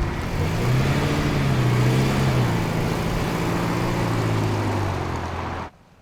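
First-generation Toyota Tacoma pickup's engine running while driving; its pitch rises about a second in and then holds steady. The sound cuts off suddenly near the end.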